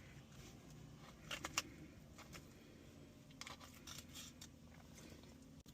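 Faint clicks and light handling noises: a few short, sharp ticks, scattered irregularly from just over a second in to past the four-second mark.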